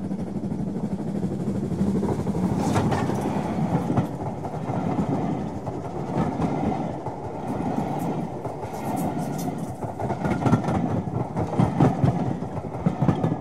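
A train passing close by: a steady rumble with the wheels clicking and clattering over the track, the clatter heaviest near the end.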